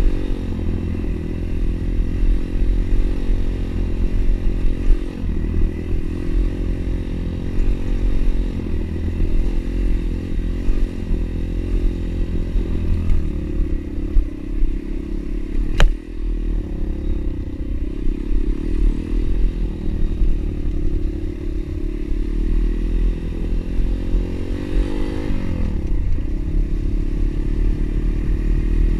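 Pit bike engine running under way, its pitch rising and falling with the throttle over a heavy low rumble, with one sharp click about halfway through.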